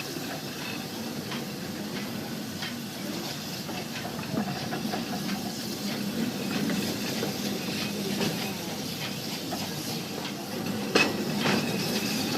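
Passenger car of a narrow-gauge steam train rolling along, with a steady hiss and rumble and scattered metallic clicks and clanks. A sharper clank comes near the end.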